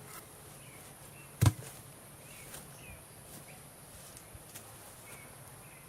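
Steady high-pitched insect drone with faint short chirps repeating every half second or so, and one sharp knock about a second and a half in.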